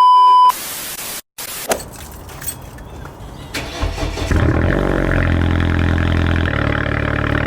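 A short, loud, high beep, then a car engine starting about four seconds in and running steadily.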